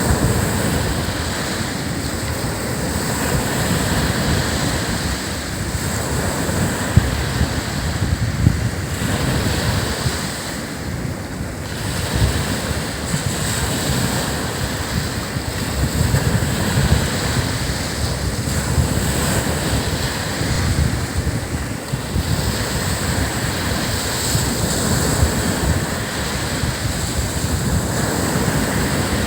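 Surf breaking and washing on a beach: a continuous rush of noise that swells and eases, with wind buffeting the microphone in a low rumble.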